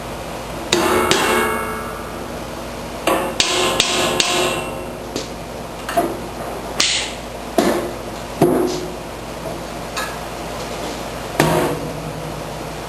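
Hammer blows on metal, about a dozen irregularly spaced strikes with ringing after several of them. They are knocking the auger and secondary impeller out of the John Deere 1032 snowblower's housing.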